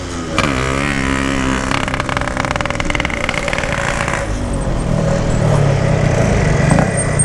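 Yamaha RX-King 135 cc single-cylinder two-stroke motorcycle engine with a loud aftermarket exhaust, its revs dipping and rising about a second in, then running lower and steady as the bike rolls along.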